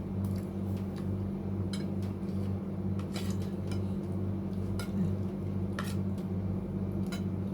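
Cutlery clinking against plates during a meal, several separate sharp clinks spread through, over a steady low hum.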